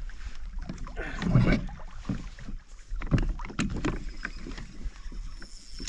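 Irregular knocks, rubs and rustling handling noise on a kayak while an angler plays a just-hooked fish, with a louder rumbling stretch about a second in and sharp knocks around three seconds in.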